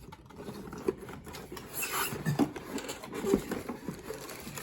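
Vacuum cleaner parts and their packaging being handled: irregular rubbing and scraping with a few light knocks, the sharpest about three and a half seconds in.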